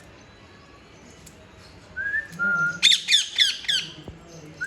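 Pet green parrot calling: a short whistled note about two seconds in, then a quick run of about five sharp, harsh squawks.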